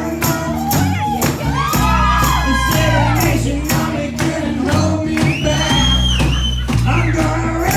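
Live band playing with a steady beat, bass line and singing.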